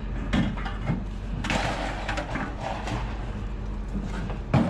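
Hand-dismantling of scrap: a few sharp knocks, a louder one near the end, and a stretch of rough scraping as parts are pulled and handled, over a steady low hum.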